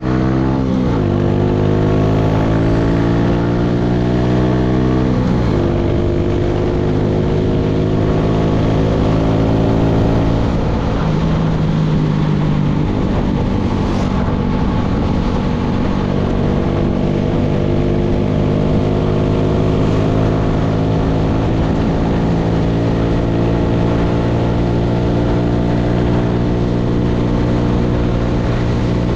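Motorcycle engine running under way, with its pitch dropping sharply at gear changes about a second in and again around five seconds in, then slowly rising as it accelerates, over steady wind and road noise.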